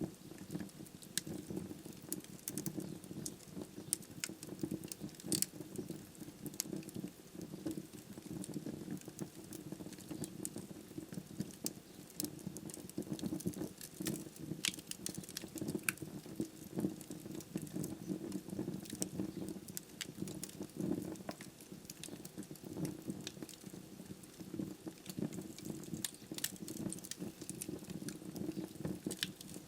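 Wood fire in a fireplace, burning logs crackling with irregular sharp pops and snaps over a low, steady fluttering of the flames.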